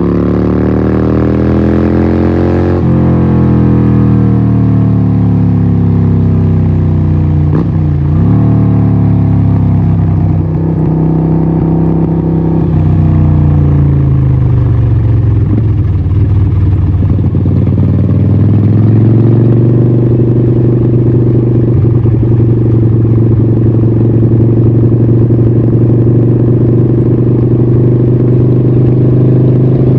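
Harley-Davidson 1200 Nightster's 1200cc Evolution V-twin running through a Vance & Hines exhaust, under way: engine pitch climbs briefly, falls away as the throttle eases, dips sharply about eight seconds in, sinks again, then picks up and holds steady through the second half.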